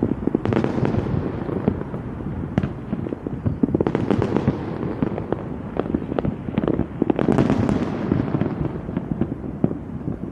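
Fireworks going off in quick succession: a steady run of sharp bangs and pops, with three louder crackling, hissing swells about a second in, around four seconds and near seven and a half seconds.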